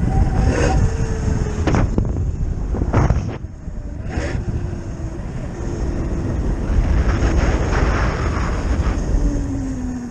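Wind buffeting the microphone while riding a Zero FX electric motorcycle, with the electric motor's thin whine sliding down in pitch near the end as the bike slows. A few sharp knocks come in the first four seconds.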